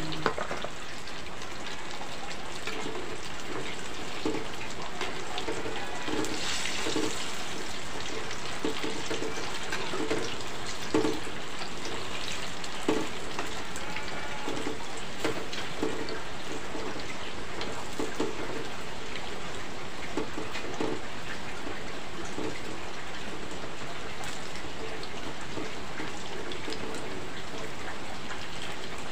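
Battered banana slices frying in a wok of hot oil: a steady sizzle with small crackles, over the hiss of rain, and a few light knocks of the spatula against the wok.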